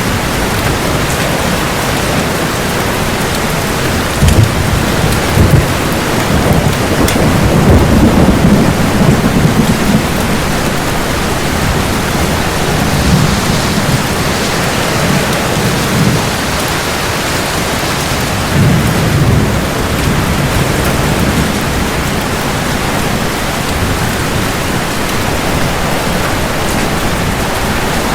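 Steady heavy rain hissing, with low rolls of thunder rumbling several times.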